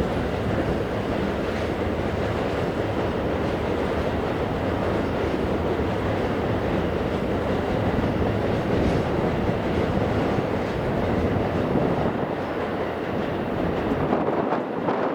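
Sanyo Shinkansen train running along the platform: a steady rush of wheel and air noise that begins to fall away near the end.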